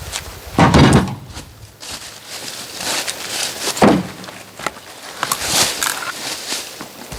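Oak firewood logs being handled: two loud, heavy wooden knocks about three seconds apart, with scraping, rustling and smaller knocks between them.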